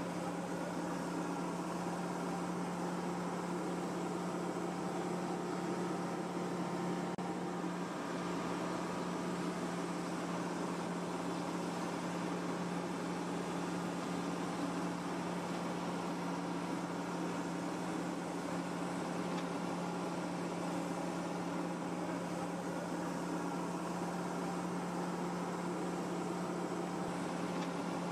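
A steady, unchanging mechanical hum, like an engine or motor running.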